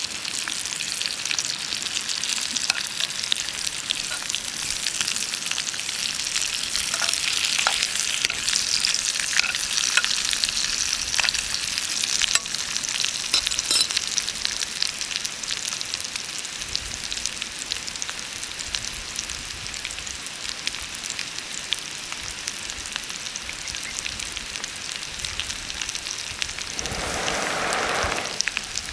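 Food sizzling and frying in a pan over a campfire: a steady hiss dotted with small pops and crackles. Near the end a louder, lower hiss comes in.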